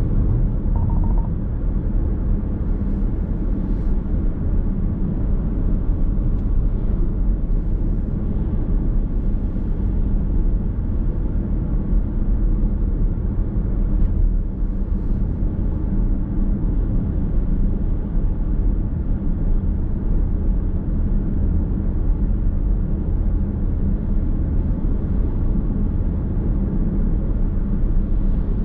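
Car driving at steady speed, heard from inside the cabin: a steady low rumble of road and engine noise.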